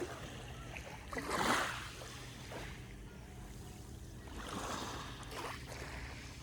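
Sea waves washing in, twice: a louder wash about a second and a half in and a softer one around five seconds in, over a steady low rumble.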